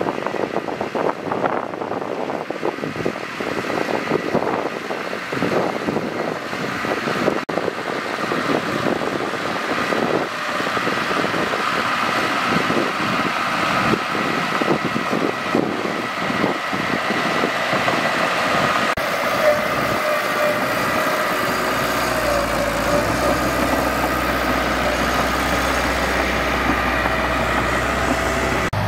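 Mitsubishi bulldozer's diesel engine running as the machine works, with steady whining tones coming in about halfway through.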